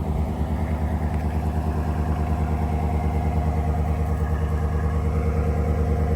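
Hemi V8 engine of a 2024 Ram 1500 Laramie pickup idling steadily, with an even, fast low pulse.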